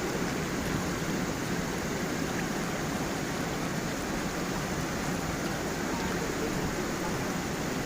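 Gentle forest stream and small waterfall running over stones: a steady, even rush of water with no change in level.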